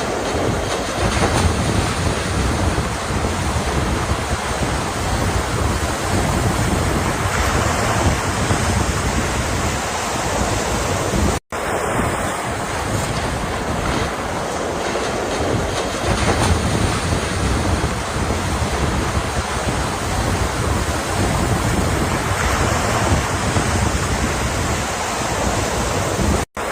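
Ocean surf washing in a steady, rushing wash that swells and eases slowly, with some wind across the microphone. The sound drops out for an instant twice, about eleven seconds in and just before the end.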